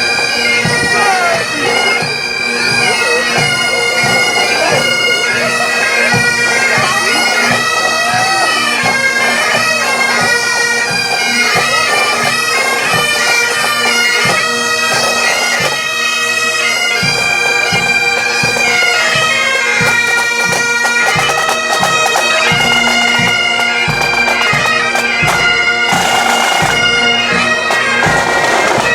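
Pipe band marching: bagpipes playing a tune over their steady drone, with drum beats underneath.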